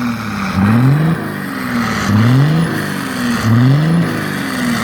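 5.9 Cummins diesel truck engine through a 5-inch straight-pipe exhaust, revving up and falling back three times in a row, about a second and a half apart.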